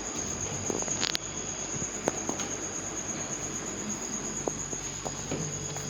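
A cricket's steady high trill over a low hum and a hiss, with a few faint clicks.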